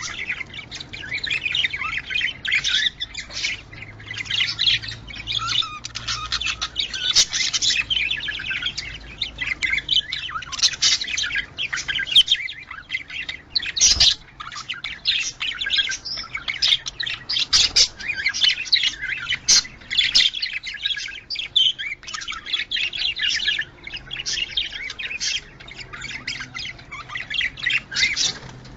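Budgerigars chattering and chirping nonstop in a dense, rapid stream: the budgie mating-season chatter used to bring pet budgies into breeding condition. A single sharp click sounds about halfway through.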